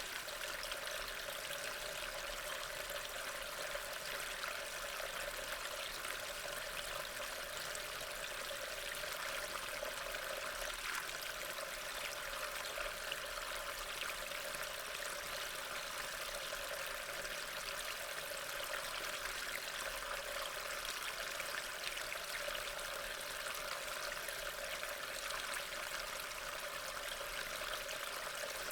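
Steady rain: a continuous even hiss of falling rain with faint fine patter.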